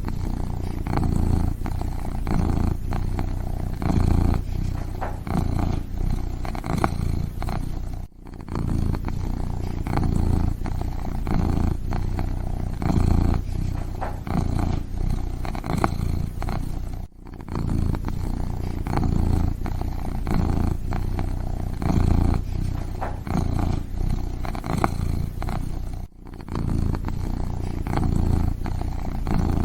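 Kitten purring steadily, a low rumbling purr that swells and fades with each breath, broken by brief gaps about every nine seconds.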